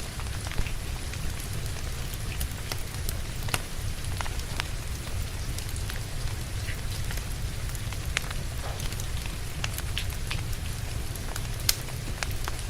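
Steady rain falling, with a crackling wood fire: scattered sharp pops and snaps over a low steady rumble, two louder pops about half a second in and near the end.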